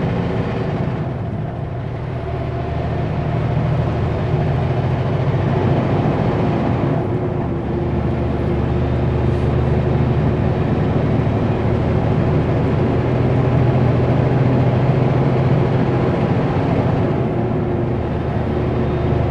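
Kenworth W900L semi truck's diesel engine running under load, heard inside the cab as a steady low drone with road and tyre noise, easing briefly a couple of times.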